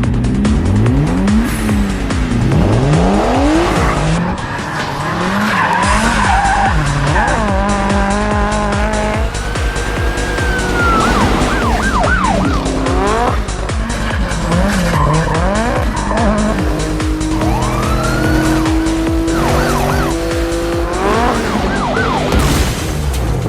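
Film car-chase soundtrack: car engines revving up and down in repeated rising and falling sweeps, with tyres squealing. A music score with a steady beat runs underneath, and a wavering siren sounds about eight seconds in.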